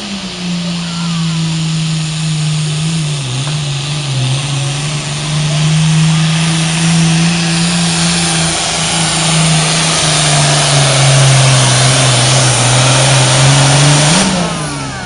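Farm tractor's engine running hard under heavy load during a tractor pull, holding a steady pitch that sags briefly about three seconds in. Near the end it revs up for a moment, then drops off as the pull finishes.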